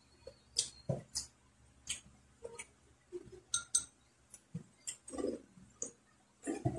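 Close-up eating sounds: wet mouth clicks and lip smacks while chewing, coming irregularly about once or twice a second, with a couple of longer chewing patches near the end.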